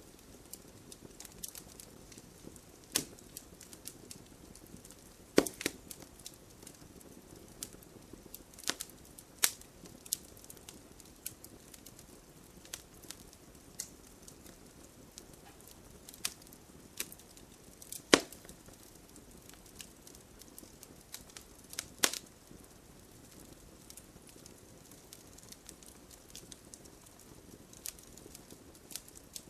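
Wood fire crackling in a fireplace: a low steady hiss with scattered sharp pops and snaps, a few of them much louder than the rest.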